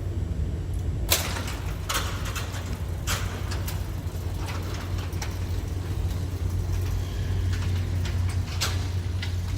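A steady low mechanical hum with sharp knocks and clacks every second or so, sparser in the middle and picking up again near the end.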